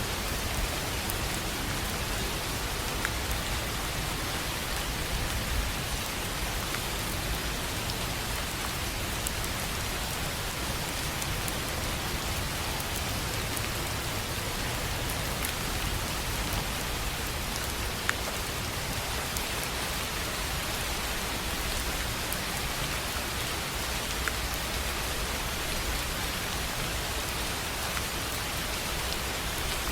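Steady rain falling on a tin roof: an even hiss of rain with scattered sharp ticks of single drops, one louder tick about two-thirds of the way through.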